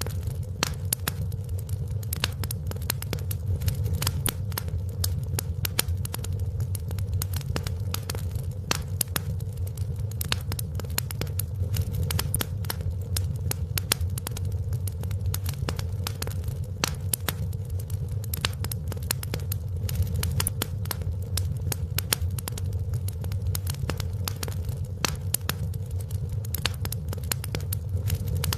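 Wood fire crackling in a fireplace: many small sharp pops and snaps over a steady low rumble of the burning fire.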